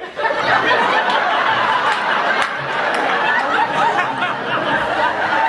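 Comedy audience laughing hard, a dense, continuous crowd laugh made up of many overlapping voices. One odd laugh stands out among them, likened to someone choking a swan or scooting a chair.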